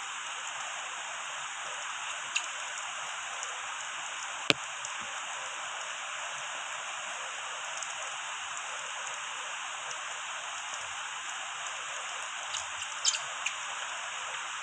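Steady rainfall hissing, with a few sharp ticks of drops striking something close by, the loudest about four and a half seconds in.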